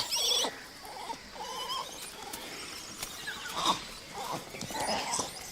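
Temple langurs calling: high, wavering calls, loudest in the first half second, followed by softer scattered calls.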